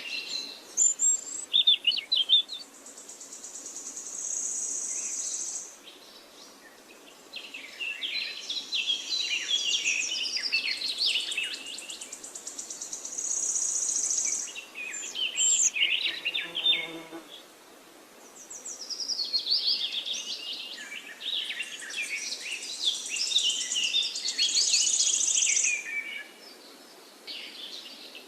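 Several songbirds singing: quick chirping phrases alternating with high, buzzy trills a few seconds long, coming in three or four waves with quieter gaps between. A brief lower-pitched call sounds about two thirds of the way through.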